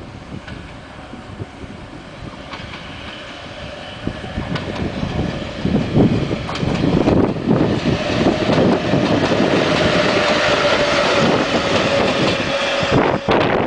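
A pair of ED-class electric locomotives coupled together approaching and passing, wheels clattering over the rail joints, growing louder with a steady high whine over the loudest stretch. The sound cuts off suddenly near the end.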